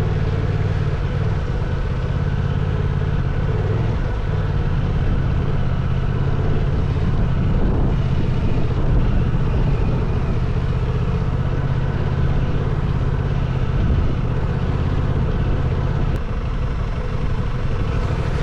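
Parallel-twin adventure motorcycle engine running steadily under way, its pitch holding nearly constant.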